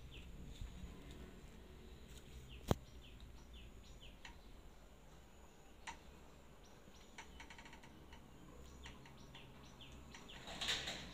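Faint bird chirps in two runs of short, quickly falling notes, with a single sharp click about three seconds in and a brief rustle near the end.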